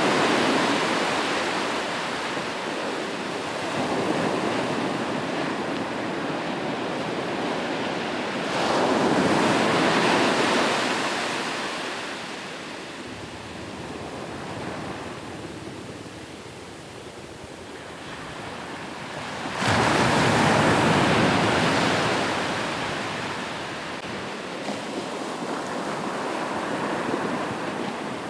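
Ocean waves breaking on the shore and washing back, in slow surges. Loud breaks come about 8 s and 19 s in, each fading over several seconds.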